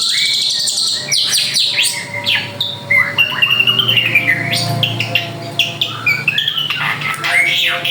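A drongo (srigunting) singing in full voice: a rapid, varied stream of whistled notes, quick up-and-down glides and sharp clicks.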